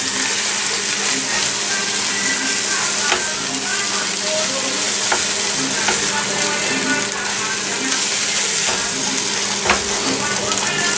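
Chilaquiles (fried tortilla pieces with egg and melting cheese) sizzling steadily in a frying pan as they are stirred, with a few sharp clicks of the utensil against the pan.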